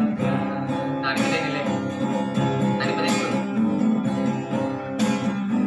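Music: an acoustic guitar being strummed, with little or no singing.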